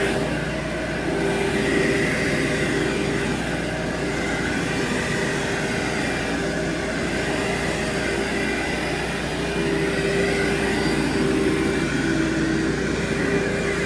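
Carpet-cleaning machine running steadily over carpet: a motor drone with a steady whine whose pitch dips slightly now and then, over the steady hiss of a pressure washer running in the background.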